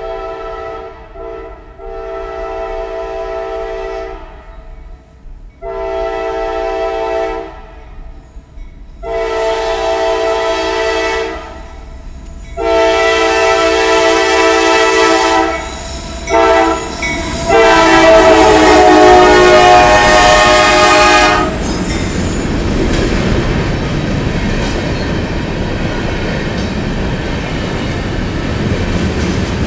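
Locomotive multi-tone air horn blowing a string of long and short blasts, louder with each one as the train nears. The last, longest and loudest blast ends about two-thirds of the way in. The train's rumble and wheel clatter follow as it passes.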